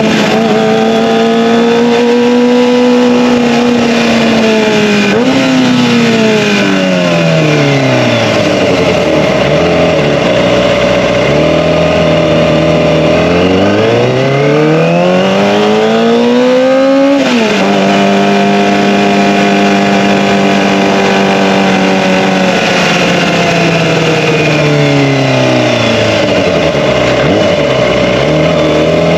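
Kawasaki ZX-25R's 250 cc inline-four engine through an Akrapovic Evolution exhaust. The engine note climbs and falls over several seconds at a time, holds steady in between, and its pitch jumps abruptly twice, about five seconds in and again past the middle, as gears change.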